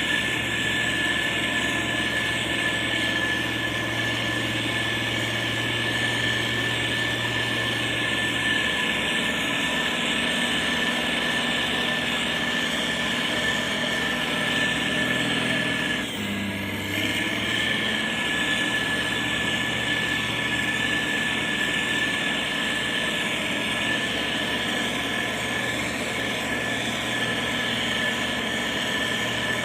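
Heavy road-construction machine engines running steadily under work, with a constant high whine over the drone. There is a brief dip and change in the sound just past halfway.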